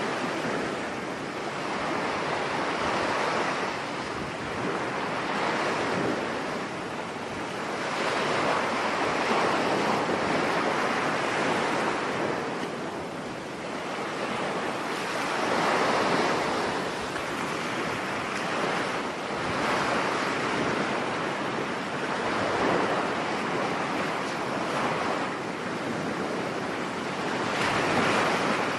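Rough sea surf breaking on a beach in stormy weather, swelling and ebbing every few seconds, with wind.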